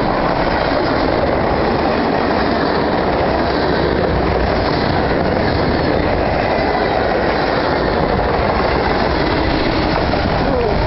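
A train rolling past close by: a steady, loud rumble of wheels on the rails that does not let up.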